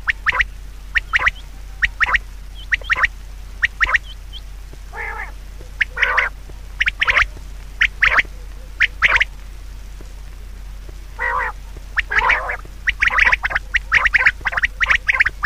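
Bird calls: many short, harsh calls in irregular runs, coming thicker and faster near the end, over a steady low hum.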